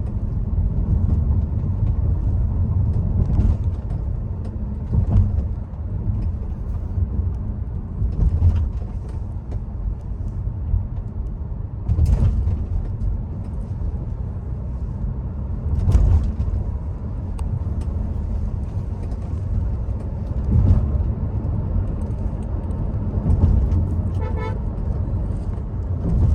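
Car on the road: a steady low rumble of tyres and engine, broken by several short thumps. A brief pulsing horn-like tone sounds near the end.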